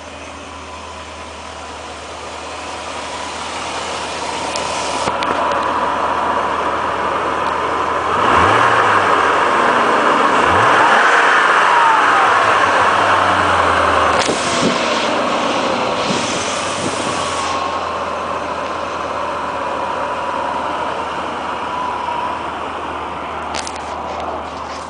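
BMW 740i engine running, revved up twice about eight and ten seconds in, then easing back toward idle. A steady high whine sits under the engine throughout.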